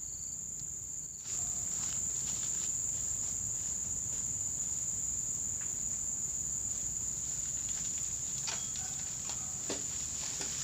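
Insects, likely crickets, trilling steadily in one continuous high-pitched drone that grows louder about a second in, with a few faint clicks near the end.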